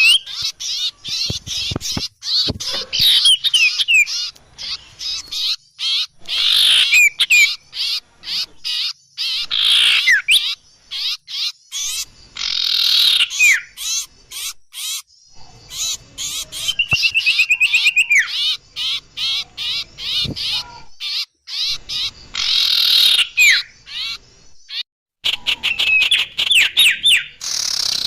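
Small birds chirping and chattering densely: rapid ticking notes, quick down-slurred whistles and fast trills, one after another with only brief pauses. This is a bird-lure call recording.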